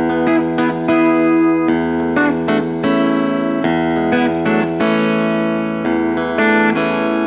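Clean electric guitar through a Fender Blues Junior tube amp with the Electro-Harmonix Oceans 11 pedal set to spring reverb, picking a melodic phrase in the Phrygian mode. The notes ring on into each other.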